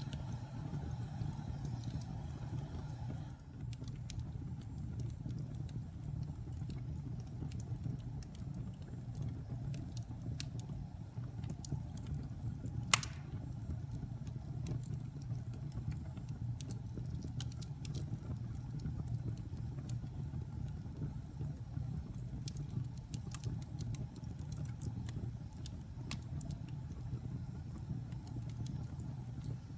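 Wood fire crackling: scattered sharp pops and snaps over a steady low rumble, with one much louder pop about halfway through.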